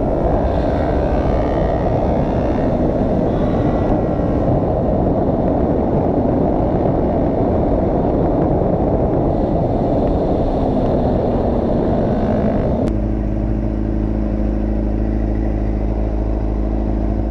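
Motorcycle riding with heavy wind noise on the microphone; about thirteen seconds in the wind noise cuts out and the engine settles into a steady idle.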